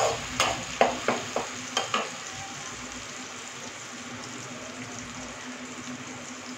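Tomato purée and ginger-garlic paste frying in hot oil in a kadai. A spatula stirs and scrapes against the pan in several quick strokes over the first two seconds, then a steady sizzle continues.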